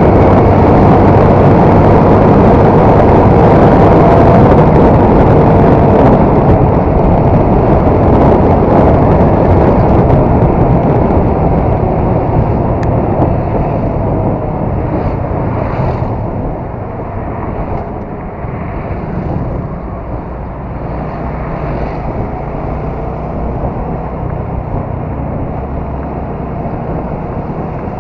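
Honda MSX 125's single-cylinder engine running on the move, with wind rushing over the camera's microphone. The sound eases off about halfway through and stays lower after that.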